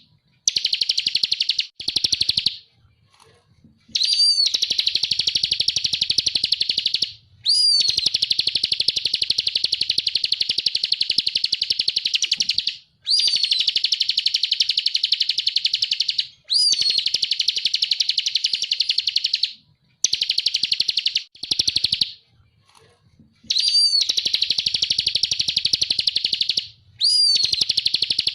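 Bar-winged prinia (ciblek) singing in full 'ngebren' style: long, rapid, buzzy trills of a few seconds each, repeated after short pauses, several opening with a quick upslurred note.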